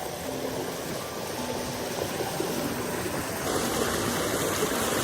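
Stream water rushing over rocks, a steady wash that grows louder and brighter about three and a half seconds in.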